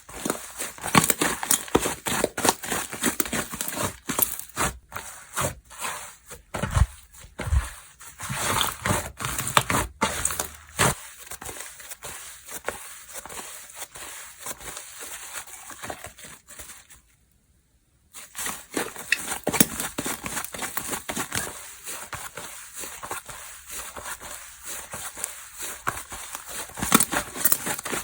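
Hands squishing, stretching and poking slime, giving dense small clicks and pops. The sound cuts out completely for about a second roughly two-thirds of the way through.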